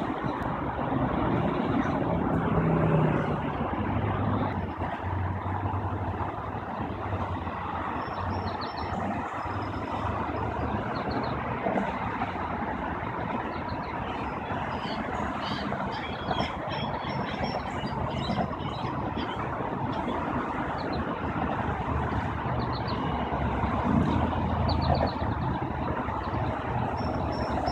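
Steady low rumble of motor traffic with a low engine hum, and faint short high chirps now and then.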